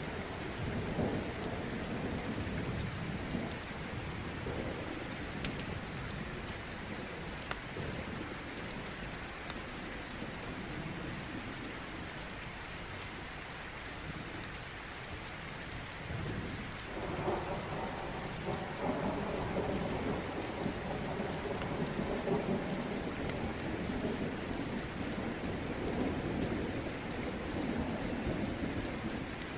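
Steady rain with rolling thunder. A low rumble dies away through the middle and swells up again about seventeen seconds in, over a constant hiss and patter of drops.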